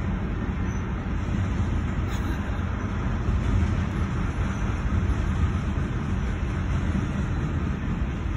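CSX freight train rolling past a level crossing, a steady low rumble heard from inside a stopped car.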